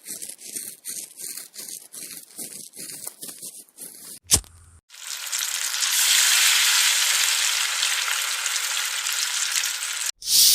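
Cooking sounds: about four seconds of rhythmic scraping or chopping strokes, three or four a second, then a single sharp click and, from about five seconds in, a steady sizzle of food frying in hot oil that cuts off near the end.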